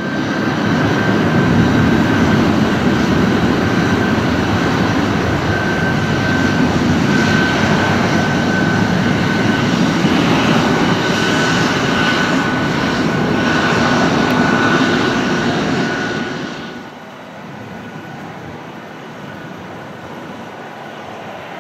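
Twin turboprop engines of a Beech B200 Super King Air running loud, a steady high turbine whine over the propeller and engine noise. The sound drops off sharply about 17 seconds in, leaving a quieter engine noise.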